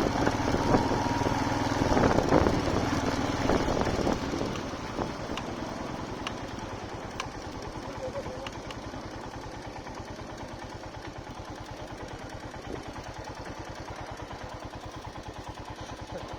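Royal Enfield Himalayan single-cylinder motorcycle engine. It runs louder for the first few seconds as the bike rolls to a stop, then idles steadily with an even pulse.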